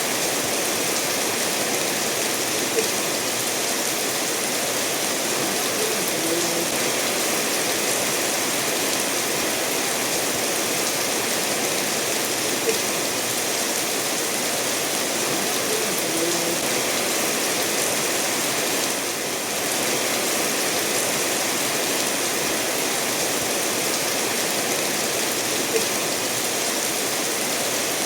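Steady rainfall blended with a stream running over stones, an even hiss, with a few sharper single drops now and then.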